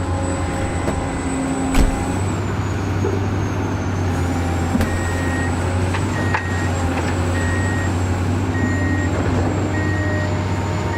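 Truck engine running steadily, with a reversing beeper starting about five seconds in and sounding about once every second and a bit; a single sharp click just before two seconds in.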